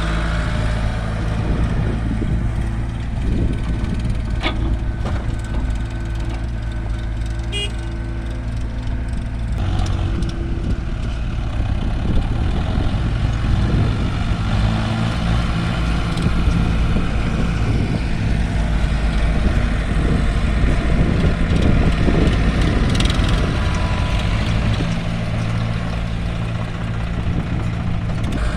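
Diesel engines of JCB backhoe loaders and tractors running steadily, the engine note shifting about ten seconds in. A couple of sharp clicks come in the first eight seconds.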